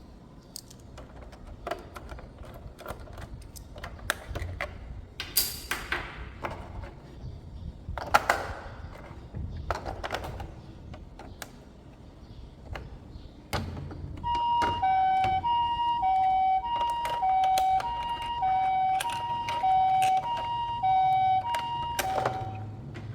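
Plastic toy and packaging being handled: scattered clicks and rustles. About fourteen seconds in, a toy vehicle's electronic siren switches on, alternating between two pitches in a hi-lo pattern, each tone held about half a second, then it stops shortly before the end.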